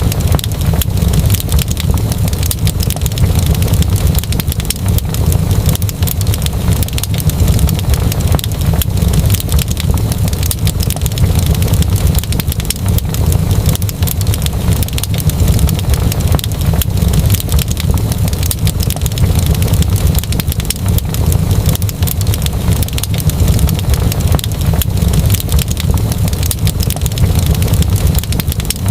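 Wood fire crackling in a fireplace: dense, irregular crackles over a steady low roar.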